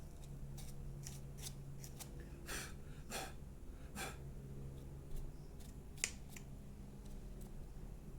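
Short clicks and brief scraping swishes from hand work on an opened hair dryer's plastic housing and parts, clogged with hair, with a sharp click about six seconds in.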